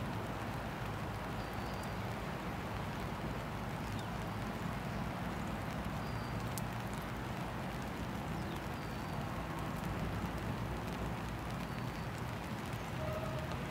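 Steady hiss of rain and wet pavement, with cars driving over a rain-soaked level crossing and a low rumble from distant approaching freight-train diesel locomotives.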